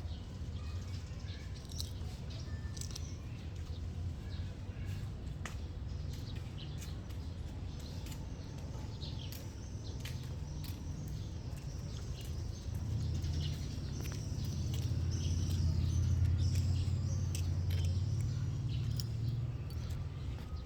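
Small birds chirping over and over, the calls thickening in the second half, over a steady low rumble and scattered light clicks.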